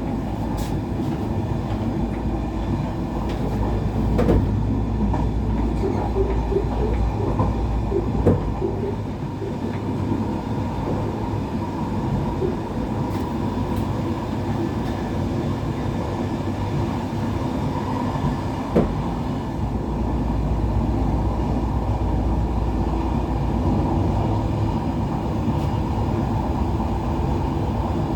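Passenger train running along the line, heard from inside the carriage: a steady low rumble of wheels on rails, with a few sharp knocks now and then.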